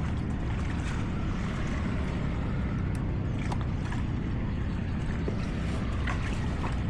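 A motor vehicle running with a steady low rumble, with a few faint clicks.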